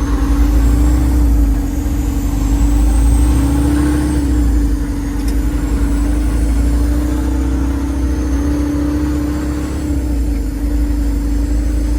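A vehicle engine running steadily with road rumble, heard from inside the cab while driving.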